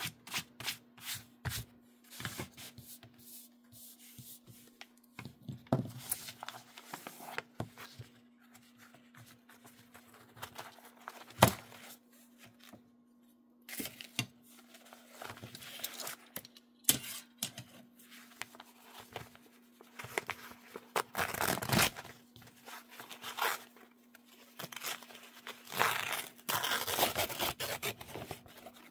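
Embroidery stabilizer being torn and crinkled by hand in irregular bursts, with one sharp click near the middle. A faint steady hum runs underneath.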